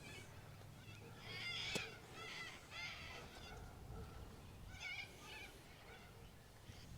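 Birds calling in the distance, a run of short repeated calls in two clusters, about a second in and again around five seconds. A single sharp click sounds just before two seconds in.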